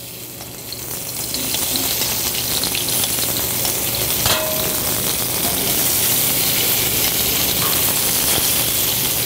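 Chicken pieces sizzling in hot oil in a frying pan. The sizzle builds over the first second or so as the pieces go in, then holds steady. A single brief clink comes about four seconds in.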